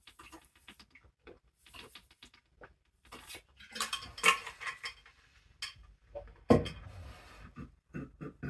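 Small hard objects being handled and set down, with light clinks and rustles, a busier spell of clatter midway and one heavier thump about six and a half seconds in.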